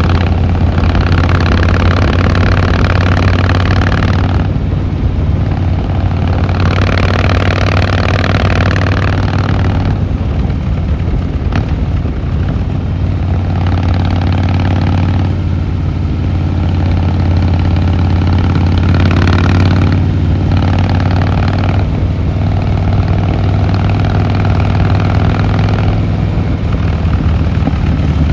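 Harley-Davidson Fat Boy Lo's air-cooled V-twin running on the road with a steady low exhaust note. Every few seconds a harsher rasp comes in for a few seconds and then drops away, as the throttle opens and closes.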